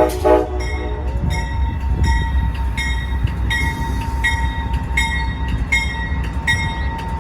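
A train horn gives a short toot at the start, then a bell rings steadily about twice a second over the low rumble of a diesel passenger train standing in the station.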